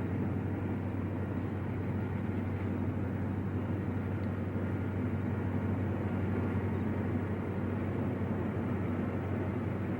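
EMD F7 diesel locomotives running with a steady low drone as the train pulls in.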